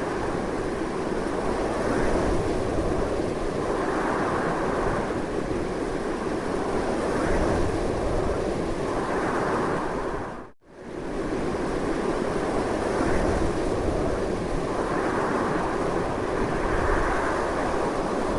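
Strong wind blowing steadily, a loud rushing that swells and eases in slow gusts. About ten seconds in, it drops out almost to silence for a split second, then comes straight back.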